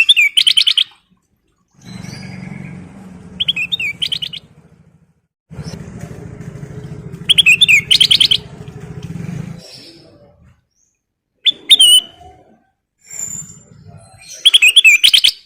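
Kutilang emas (a bulbul) singing in short, loud bursts of quick repeated chirps, five phrases spaced a few seconds apart. A lower, pulsing buzz runs between the phrases.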